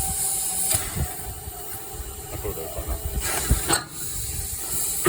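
Steam locomotive 99 7243-1, a narrow-gauge 2-10-2 tank engine, hissing steam steadily, with a few short knocks, about a second in and again past the middle.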